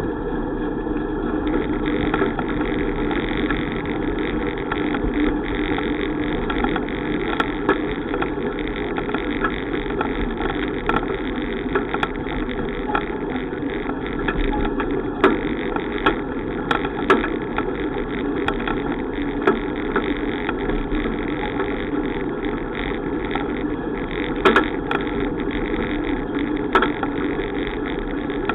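Steady riding noise of a bicycle ride, with sharp clicks and knocks every few seconds.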